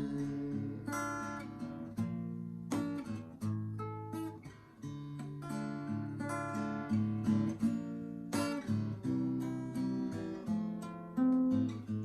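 Acoustic guitar playing an instrumental passage of strummed and picked chords, with no singing.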